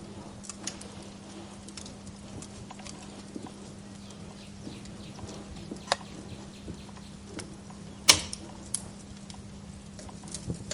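Wood fire crackling, with irregular sharp pops and snaps over a steady low hum; the loudest pop comes about eight seconds in.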